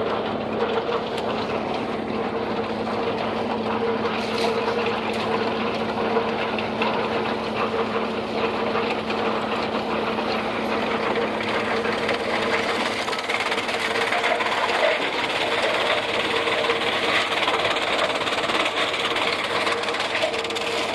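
Antique Blizzard silage chopper running steadily, belt-driven from a Farmall 400 tractor, with a constant mechanical hum and rattle.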